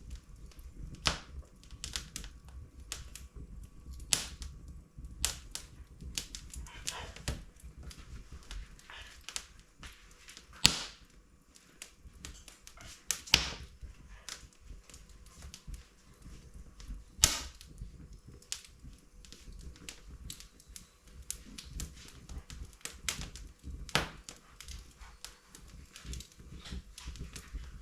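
Wood fire crackling in an open fireplace: irregular small snaps with a few louder pops from the burning logs.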